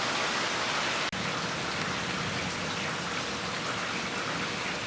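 Steady summer rain falling, heard from a screened-in porch. A single sharp click with a brief dropout about a second in.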